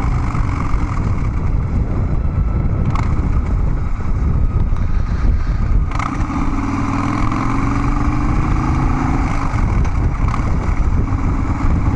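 Harley-Davidson Dyna Street Bob's V-twin engine running through Vance & Hines Big Radius 2-into-2 exhaust pipes while riding. About halfway through, the engine note climbs slowly as the bike picks up speed.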